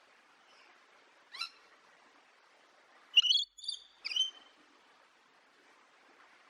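Bird calls: one short high call about a second in, then a quick run of sharp high chirps a couple of seconds later, over a faint steady hiss.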